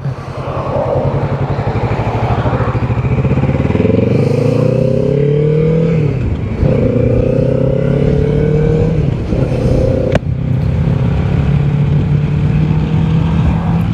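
Motorcycle engine pulling away and accelerating through the gears: its pitch climbs and drops twice as it shifts up, then holds steady at cruising speed. A single sharp click about ten seconds in.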